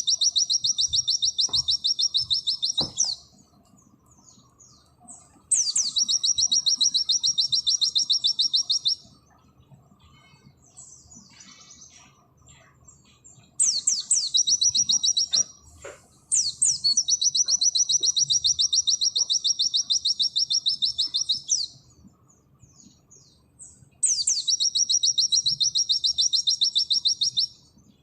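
A pleci (white-eye) singing its 'nembak' song: long runs of very rapid, high-pitched repeated notes, five bursts of a few seconds each. Each burst opens with a sharp falling note, and there are soft chirps in the gaps between them.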